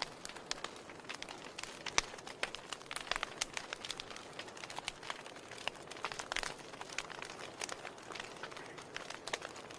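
Wood fire in a fireplace crackling: irregular sharp pops and snaps over a soft hiss, with a louder pop about two seconds in and a busier run of snaps around three to four seconds.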